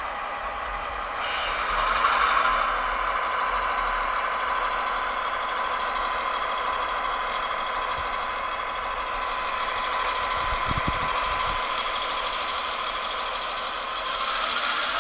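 Model Union Pacific GP38-2 diesel locomotive running, its sound playing a steady diesel engine sound with a constant whine, swelling louder about a second in and again near the end.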